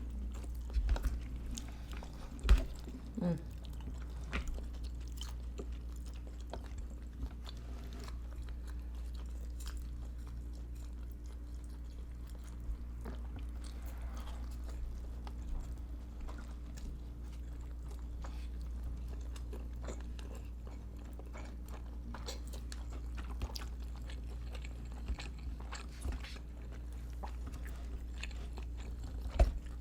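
Close-miked chewing and biting of food, with many soft wet mouth clicks and a few louder sharp clicks near the start and again near the end, over a steady low hum.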